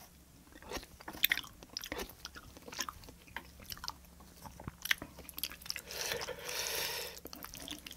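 Close-miked chewing of food, a string of irregular wet clicks and smacks from the mouth, with a breathy rush lasting about a second near the end.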